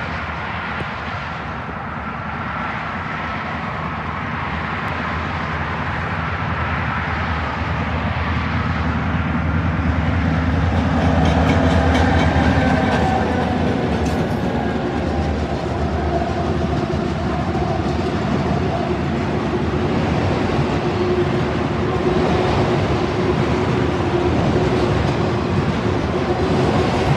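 A diesel-led freight train approaching and passing close by. The locomotives' engines rumble louder as they come near, peaking about twelve seconds in, with a burst of clicks from wheels over the rail joints. Then the autorack cars roll past with a steady rolling rumble and clatter.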